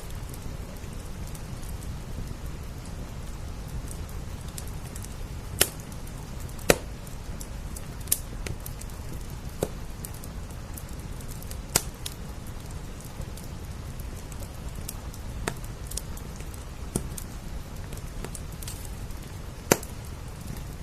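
Wood fire crackling, with about eight sharp pops spread through, over a steady bed of rain on glass.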